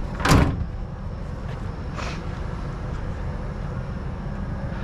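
A sharp clatter just after the start and a lighter knock about two seconds in, over a steady low rumble of an idling vehicle.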